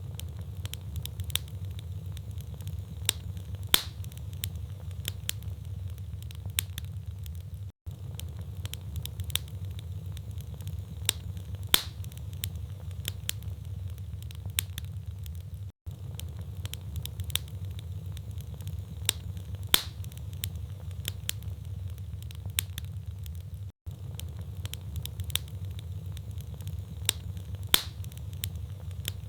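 Wood fire in a fireplace, logs crackling and popping over a steady low rumble of the flames. The sound cuts out briefly about every eight seconds, and the same loud pops come back at that spacing.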